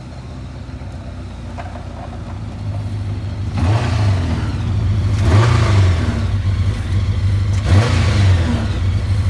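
Honda CBR1000RR inline-four motorcycle engine in a Lotus 7-style car, growing louder as the car drives up, then idling and revved sharply three times, each rev rising and falling quickly in pitch.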